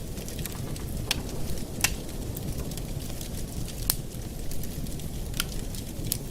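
Wood fire crackling in a fireplace: a steady low rumble with sharp pops about every second or so.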